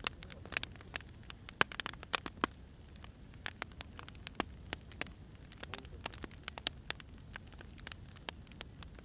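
Burning firewood crackling: irregular sharp pops and snaps, several a second, over a steady low rumble of the flames.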